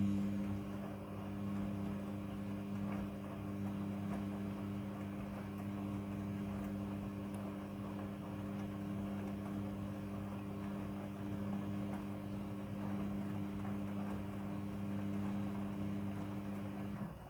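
Midea front-loading washing machine humming steadily, a mains-hum motor or valve drone with water rushing under it, cutting off suddenly near the end.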